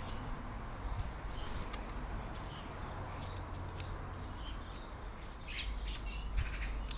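European starlings chirping and whistling in short, scattered calls over a low steady background rumble.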